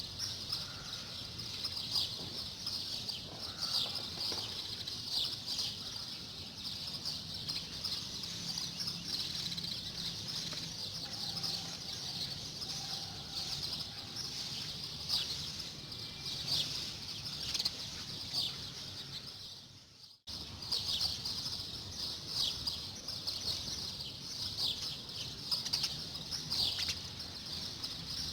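Many small cage birds chirping and twittering at once, a dense high-pitched chorus of quick notes. It cuts out briefly about twenty seconds in, then resumes.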